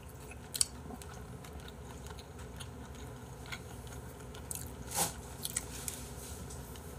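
Quiet chewing and mouth sounds of a man eating spicy braised chicken, with a few soft clicks scattered through; the sharpest click comes about five seconds in.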